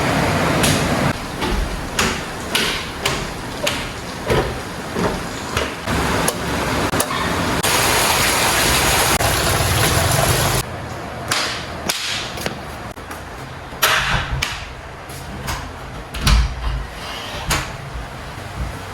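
A string of knocks and clacks from objects being handled, with about three seconds of steady rushing noise in the middle.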